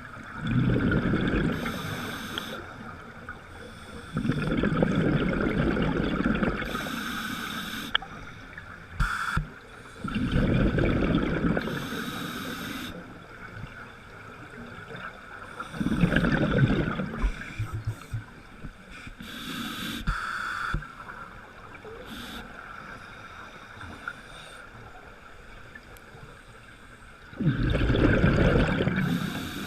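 A boat moving on water, with a steady hum and repeated rumbling surges of water or wind every few seconds.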